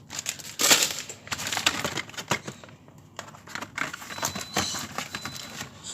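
Plastic snack packets crinkling and rustling as they are handled, with irregular clicks and taps.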